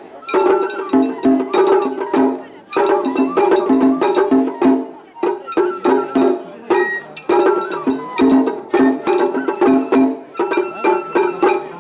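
Japanese festival hayashi ensemble playing: quick, steady taiko drum strokes under a bamboo-flute line, with short sharp metallic-sounding strikes throughout.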